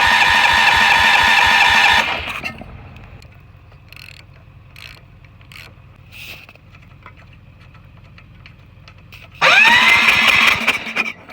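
Allis-Chalmers 716H garden tractor's starter cranking the engine with a rising whine, stopping after about two seconds, then cranking again near the end for about a second and a half. The engine never catches, which the owner puts down to a spark problem. A few faint clicks come between the two tries.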